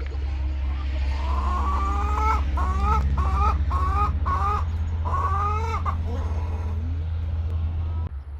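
Chickens clucking in a run of about seven short, squawky calls, over a steady low hum.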